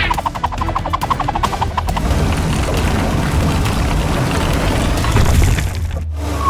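Cartoon sound effects over background music with a steady low bass: a quick run of ticks in the first two seconds, then a long noisy rumble with crashing that cuts off briefly near the end.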